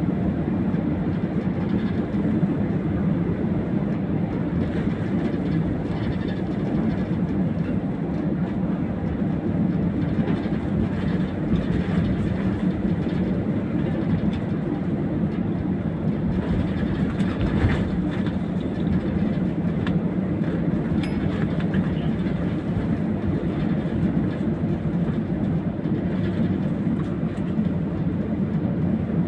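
Steady low rumble inside an airliner cabin as the plane taxis after landing, with faint irregular clicks.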